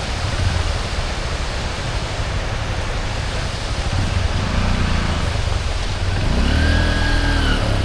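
Motorbike engine running and revving up and down twice over a steady rushing noise, the second rev the longer and fuller.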